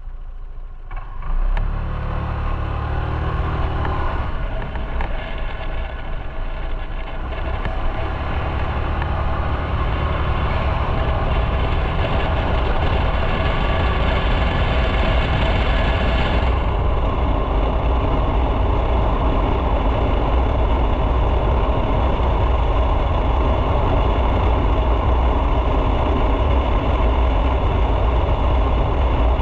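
Motorcycle engine picking up about a second in as the bike pulls away, then running steadily while riding, with road noise building slowly.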